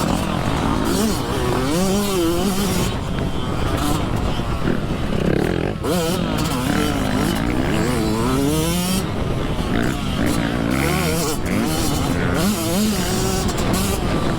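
Dirt bike engine revving up and down over and over as it is ridden around a motocross track, its pitch rising and falling with each burst of throttle.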